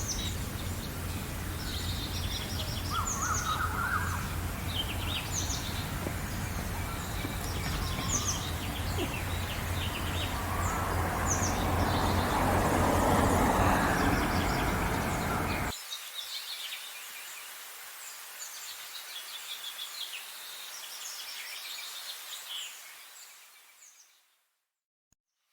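Wild birds chirping and singing in a morning chorus over a steady low background noise, with a rushing noise swelling to the loudest point about two-thirds of the way through. The low background then cuts off abruptly, leaving quieter birdsong that fades out near the end.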